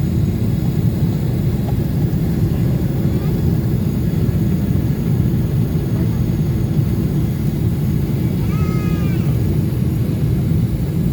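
Steady low rumble of a Boeing 777's engines and rushing air, heard inside the cabin during descent. About eight and a half seconds in, a short high cry, like a small child's, sounds over it.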